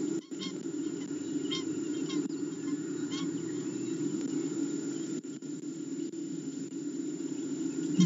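A few short, faint bird chirps in the first three seconds or so, over a steady low rumble of background noise.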